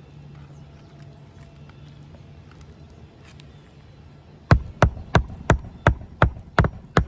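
Hammer driving roofing nails through asphalt shingles by hand: a quick, even run of sharp blows, about three a second, starting about four and a half seconds in. Before that only a low steady hum.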